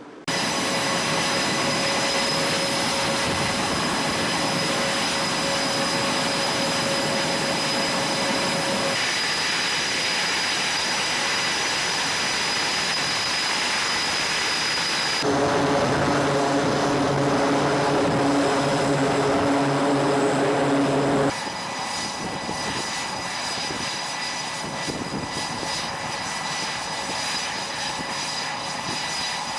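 Jet aircraft engines running steadily with a high whine, heard in several cut-together shots; the loudest shot, about halfway through, adds a deeper steady hum.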